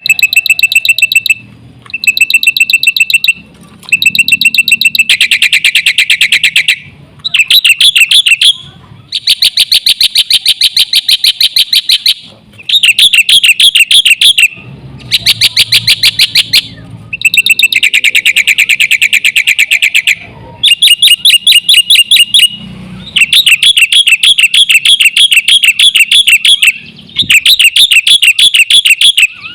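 Black-winged myna (jalak putih) singing loudly in runs of rapid repeated high notes, each run lasting one to three seconds, with short pauses between the runs.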